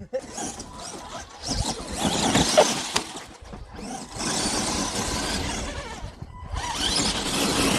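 Arrma Gorgon electric RC monster trucks driving hard over rough ground, with a whirring drivetrain and scrabbling tyres. The sound comes in three spells of throttle, with short let-offs between them.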